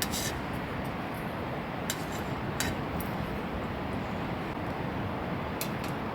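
Steady wind noise, strongest in the low end, with a few sharp clicks: one at the start, two around two seconds in, and a quick pair near the end.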